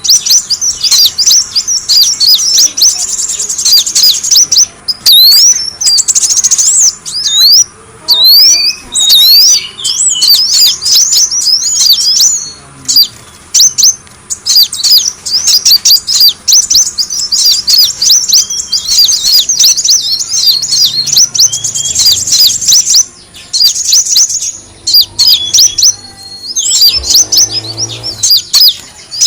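Kolibri wulung sunbird calling in rapid, high-pitched chirps and short twittering trills, nearly without pause. This is a lure recording of the calls used to draw the bird in.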